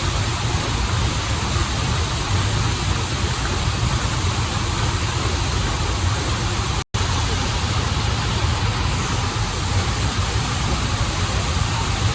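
Waterfall and river water rushing in a steady, unbroken hiss with a deep low rumble underneath. The sound cuts out completely for an instant about seven seconds in, then resumes unchanged.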